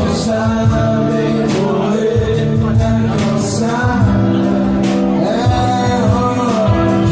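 Live band music: a male voice singing held notes over guitar, with a steady drum beat.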